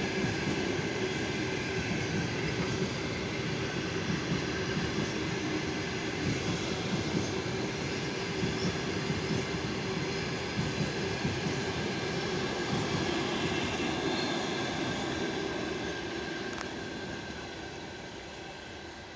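Passenger train coaches rolling past on the rails with a steady squeal as the brakes are applied in a running brake test. The sound fades as the train draws away near the end.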